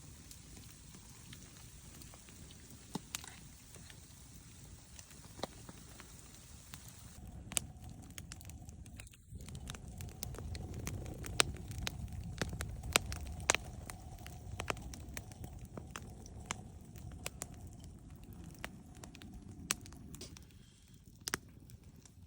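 Wood campfire crackling, with many scattered sharp pops and snaps.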